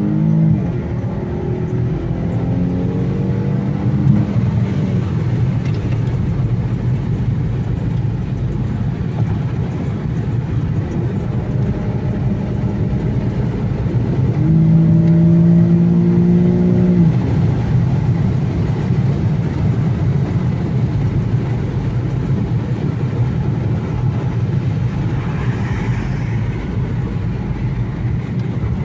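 Infiniti Q70 engine and road rumble while driving. The engine note climbs and drops back at a gear change just after the start. About halfway in it pulls harder, rising steadily for a couple of seconds before dropping at an upshift.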